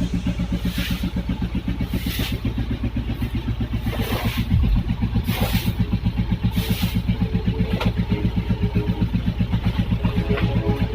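Vehicle engine running at a steady idle with an even, rapid pulse, and a few short hissing noises every second or so.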